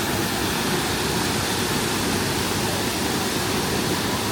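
Steady, even rushing noise with no distinct events, like rushing water or wind.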